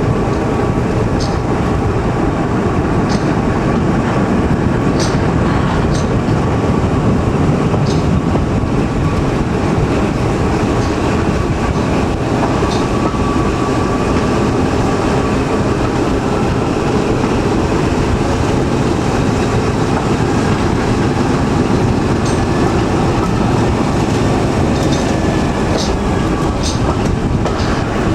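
Train running, heard from a carriage behind BR Class 14 diesel-hydraulic D9551: a steady loud rumble of wheels on rail, with scattered sharp clicks and a faint steady whine.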